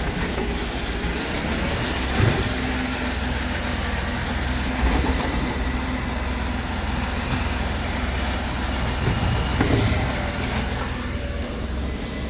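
Side-loading refuse collection truck running steadily, with a few short knocks along the way.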